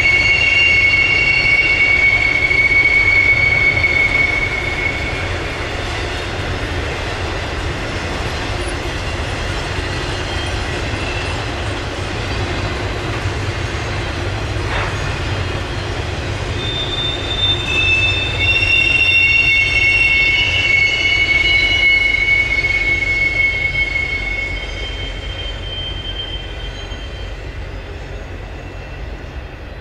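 Intermodal freight train of container-stacked well cars rolling past with a steady low rumble. High wheel squeal rises over it twice, in long held tones in the first few seconds and again from about 17 to 24 seconds in, before the sound eases off near the end.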